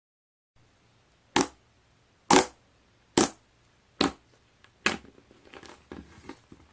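Aloe slime being handled: five sharp pops about a second apart, then a run of softer crackling squishes near the end.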